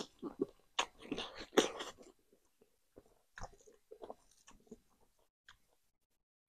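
A person chewing and biting food close to the microphone, with moist, crackly mouth clicks. The sounds come thickly for the first two seconds, then thin to a few faint clicks and stop about a second before the end.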